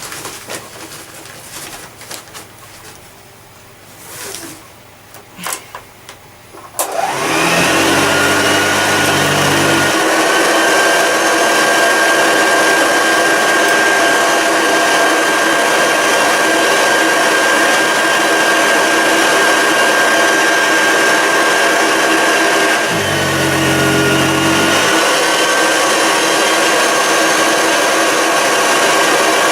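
Hoover Junior 1354A upright vacuum cleaner: a few handling clicks, then the motor is switched on about seven seconds in and runs loudly and steadily with a high whine. The whine dips briefly about two-thirds of the way through.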